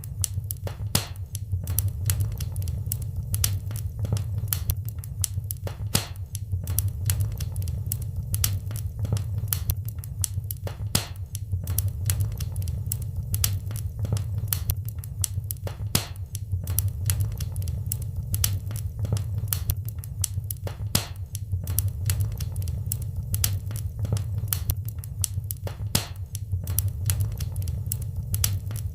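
Wood fire burning in a fireplace, with a steady low rumble of the flames and frequent irregular crackles and pops.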